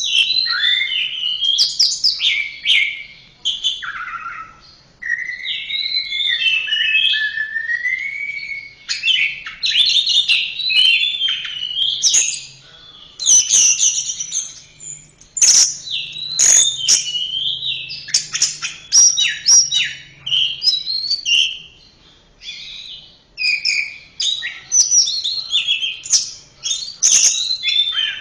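Orange-headed thrush song: a long run of fast, varied phrases of gliding whistles and quick chattering notes, broken by short pauses.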